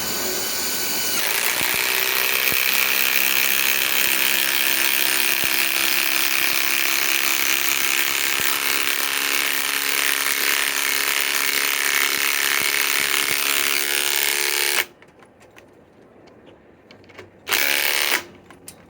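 Cordless power tool boring into wood, likely a pilot hole for a lag screw. It runs steadily under load, its pitch dropping as it bites in the first couple of seconds, then stops suddenly. A short second burst follows a few seconds later.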